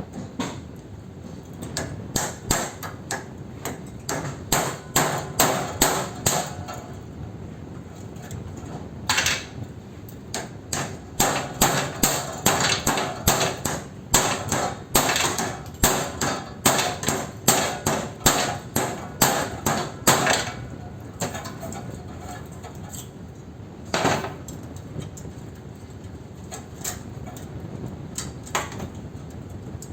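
Hammer blows on metal in quick runs, two or three strikes a second, with one heavy blow later on and a few scattered taps after it. The blows are knocking the galvanised steel stiffener strip off the end of an air-conditioner condenser coil.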